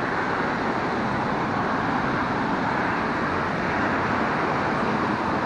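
Steady road traffic noise: vehicles passing on the street, an even rushing sound with no separate pass-bys standing out.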